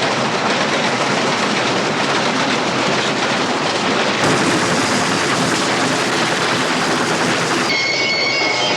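Passenger train running at speed: a loud, steady rushing rumble of wheels and rails. About a second before the end it cuts abruptly to a different engine drone with a few steady tones.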